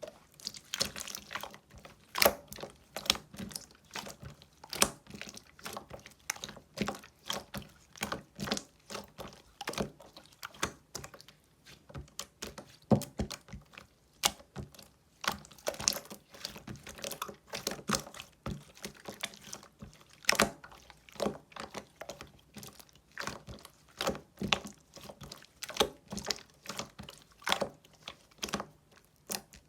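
Coral-coloured clear slime being pressed and squished by hand, giving irregular sticky clicks and pops, one to three a second.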